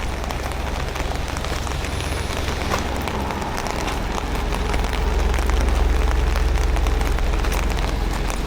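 Hankyu train running, a steady rushing rattle over a low rumble. The rumble swells louder about halfway through.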